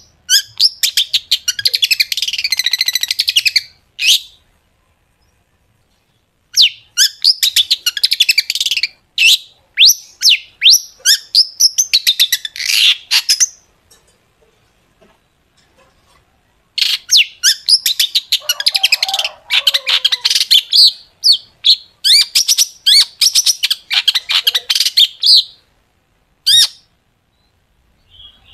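Long-tailed shrike (cendet) singing in runs of rapid, sharp staccato notes, the 'tembakan' (shots) style. Three long phrases come with pauses of a few seconds between them, and one short note near the end.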